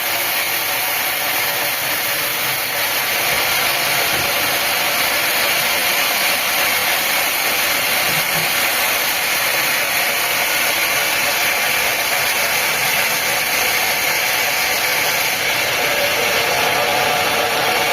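Sawmill saw running steadily, an even unbroken machine noise.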